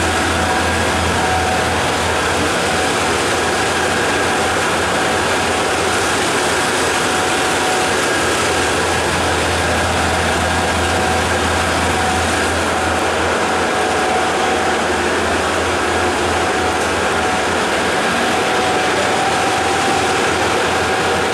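Passenger train coach rolling along the track, heard from its open vestibule doorway: a steady, loud rumble and rattle of wheels and coach body with a faint high whine.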